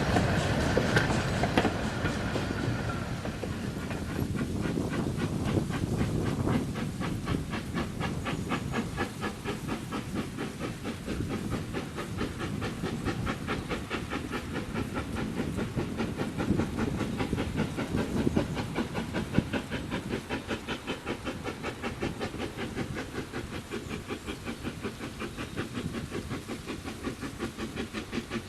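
Corpet-Louvet 040T steam tank locomotive working a train, with a fast, even beat of exhaust and steam hiss over the rumble of the train. It is louder in the first few seconds, then steadier and quieter.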